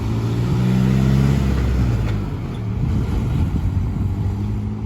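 A motor vehicle's engine running, its steady note breaking into a rougher, louder run about a second and a half in, then settling back to the steady note near the end.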